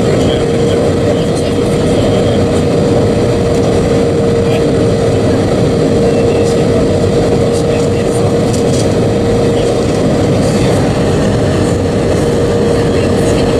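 Steady engine and airflow noise inside the cabin of an Airbus A320-232 with IAE V2500 engines, heard from a seat over the wing. A constant mid-pitched hum runs through the even roar.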